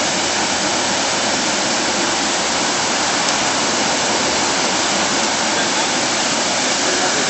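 Waterfall: a steady, loud rush of falling water with no change or break.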